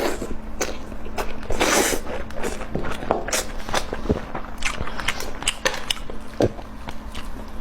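Someone eating braised chicken drumstick: biting and chewing, heard as irregular wet clicks and smacks.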